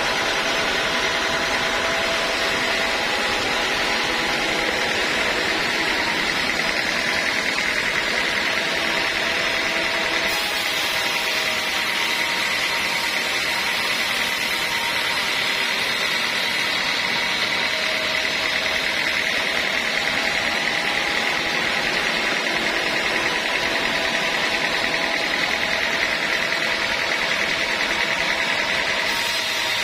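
Band sawmill running steadily, a loud, even machine noise with a constant whine.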